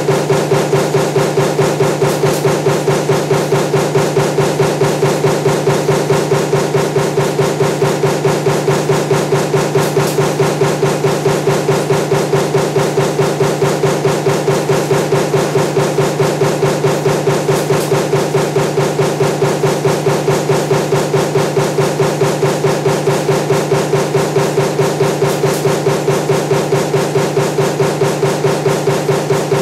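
Power stamping press running a die for table fan motor parts, punching at a steady rapid rate of several strokes a second over a constant mechanical hum.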